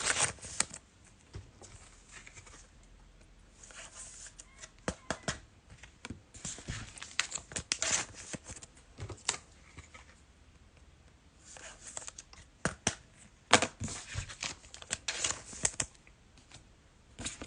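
A foil trading-card pack being torn open, then the cards slid and shuffled by hand. Spells of crinkly tearing and rustling come with scattered sharp clicks and taps.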